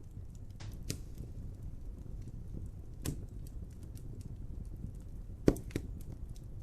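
Wood fire crackling over a low, steady rumble, with scattered small pops. Sharper pops come about a second in and three seconds in, and the loudest pop comes about five and a half seconds in.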